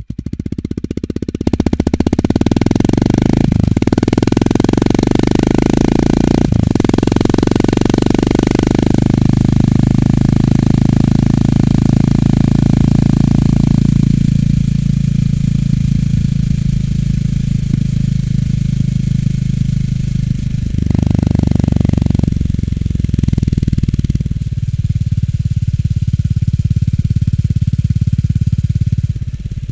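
Honda GB350 S's air-cooled single-cylinder engine through its stock muffler: pulling away from a slow thumping idle, with brief breaks in the sound about 3 and 6 seconds in as it shifts up, then running steadily. The sound eases off in the second half and settles back toward a thumping idle at the end.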